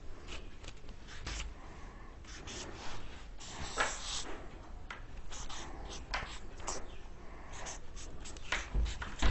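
Scattered short scratches and rustles of paper and pen handling, as when a notebook is being looked over and marked.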